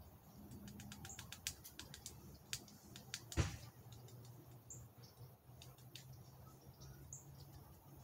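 Faint outdoor ambience with short, high bird chirps every couple of seconds and a run of sharp clicks over the first three seconds. About three and a half seconds in comes one dull thump, the loudest sound. A low, steady hum runs underneath.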